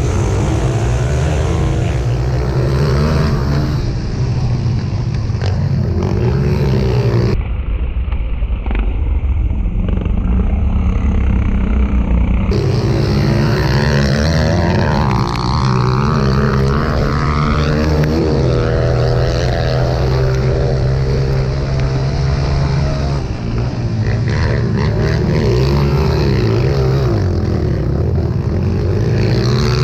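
Pit bike engines revving hard as the bikes race around a dirt track, the pitch rising and falling again and again with throttle and gear changes. The sound changes abruptly about seven seconds in and again about twelve seconds in, where the footage is cut.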